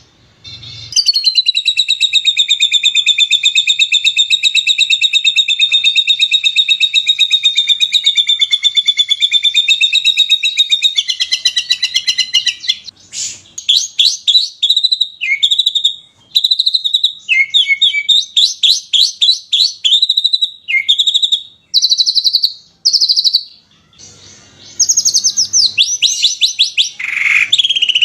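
Songbird song recorded close: a very fast trill of rapid-fire notes lasting about ten seconds, then a string of quick chirps, short trills and falling whistled notes with brief pauses.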